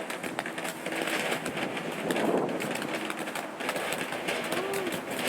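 Small consumer firework fountain burning, a steady hiss full of crackles.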